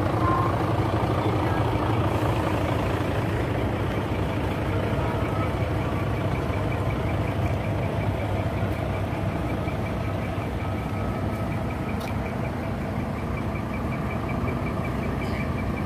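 Large truck engine idling steadily, with a faint quick ticking above the rumble from about six seconds in.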